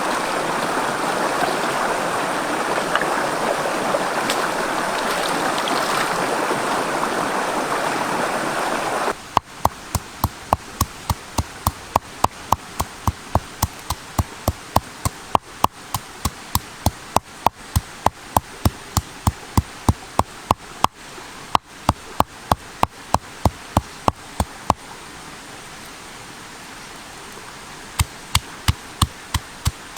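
A steady hiss like running water that stops abruptly about nine seconds in. Then comes a quick run of sharp knocks, about two to three a second, like a knife chopping on a wooden board while food is prepared. The knocks pause briefly near the end and then start again.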